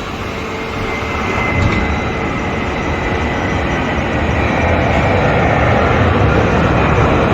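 Steady mechanical running noise with a faint high whine, slowly growing louder, from an Airbus A330-200 during a landing gear retraction test.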